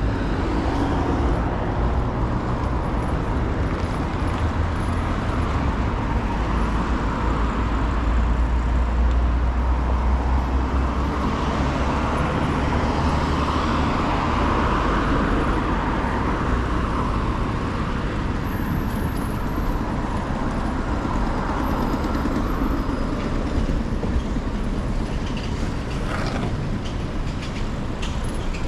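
City street traffic: a steady low rumble of road noise, with a vehicle passing louder around the middle.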